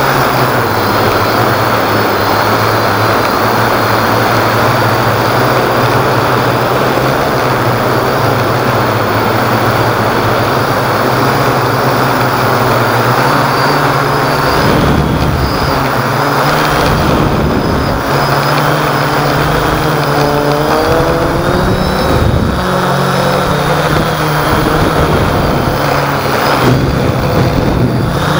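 Hexacopter's propellers and motors droning steadily, their pitch stepping up and down, over a dense rush of strong wind.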